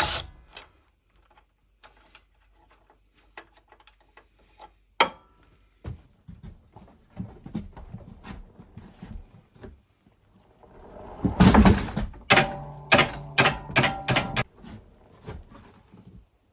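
Handling noises of tools and parts: scattered clicks and knocks with a sharp knock about five seconds in, then a run of loud, rapid scraping or rubbing strokes in the last few seconds.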